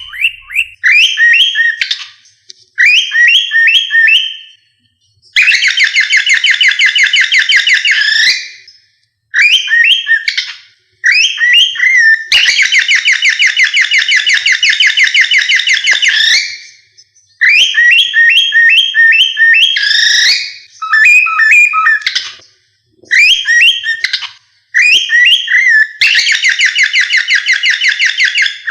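Cockatiel whistling: short phrases of clear, bending notes alternate with three long stretches of rapid trilled warbling, each lasting several seconds.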